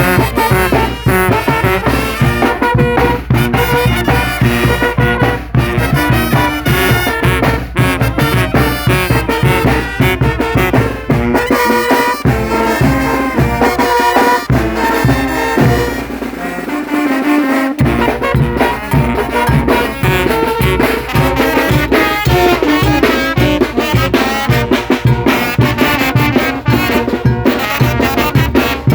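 A Guerrero brass band (banda de viento) playing: trumpets and trombones over a rhythmic bass and drums. The low bass drops out for a couple of seconds just past the middle, then comes back in.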